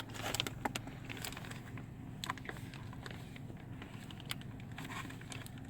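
Scattered small clicks and crinkles of a sweet's packaging being handled and opened, over a low steady hum.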